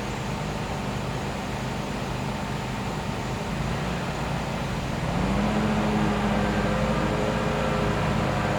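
Gas-powered generator engine running with a steady hum. About five seconds in, its pitch rises a little and it gets louder.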